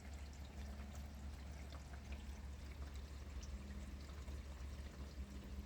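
Steady rain falling, with scattered droplet ticks and water running off a roof into a gutter and drainpipe.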